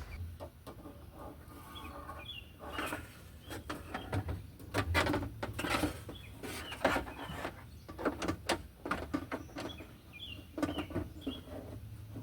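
Irregular clicks, knocks and rattles of hands working the plastic window clip and glass inside a car door, as the clip is fitted onto the window regulator. Faint bird chirps a few times.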